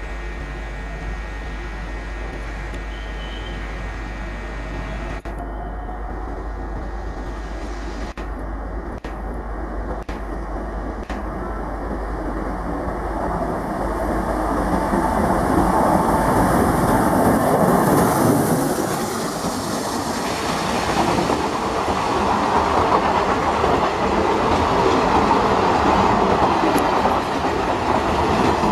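Passenger express train passing at speed, its wheels clattering over the rail joints. It grows much louder about halfway through as the coaches come close by.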